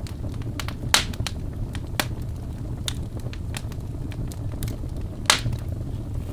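Wood logs burning in a fireplace: a steady low rumble of the flames with irregular sharp crackles and pops, two louder pops about a second in and near the end.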